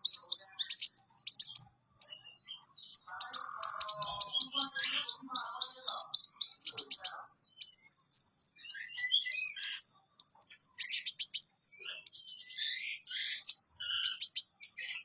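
Songbird singing a fast, high, chattering song of rapid repeated notes, broken by short pauses a couple of times.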